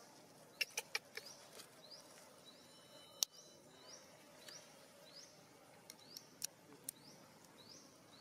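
Faint bird calls: a short upward-sweeping chirp repeated about twice a second. A few sharp clicks are scattered through, the loudest about three seconds in.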